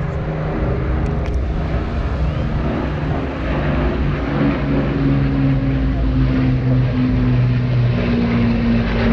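Avro Lancaster's four Rolls-Royce Merlin piston engines running in flight: a loud, steady multi-tone drone whose pitch shifts a little partway through.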